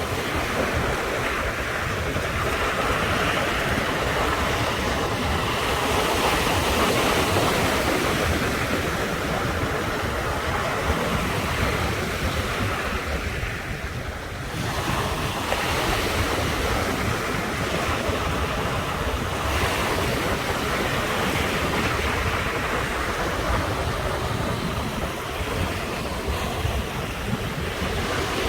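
Sea surf washing onto the shore continuously, a steady wash of breaking waves with a brief lull about halfway through before the next waves come in.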